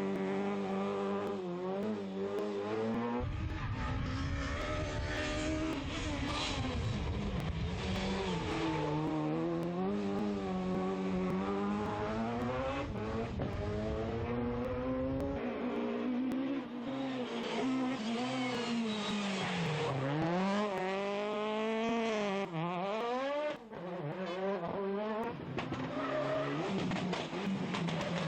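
Rally car engine revving hard on a special stage, pitch climbing and dropping repeatedly through gear changes and lifts off the throttle, with sharp drops in revs under braking. A low rumble sits under the engine for the first half.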